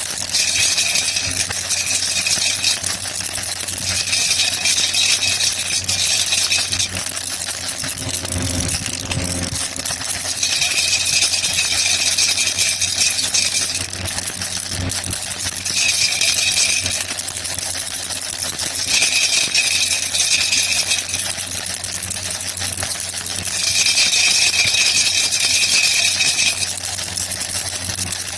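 Baby rattle (jhunjhuna) shaken in six spells of one to three seconds each, with short pauses between, over a steady hiss.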